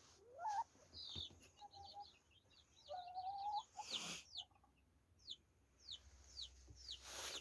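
Domestic chickens calling quietly: a few short rising calls and one drawn-out call about three seconds in, over a string of faint, high, falling chirps.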